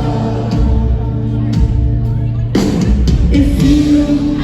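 Live rock band playing loudly, with drums, guitars and singing.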